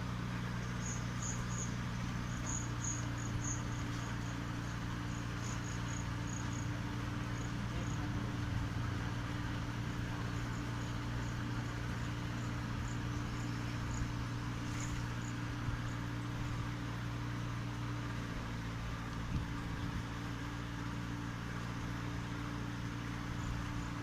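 A steady low hum, with a cricket chirping in quick short pulses through the first several seconds and again around the middle.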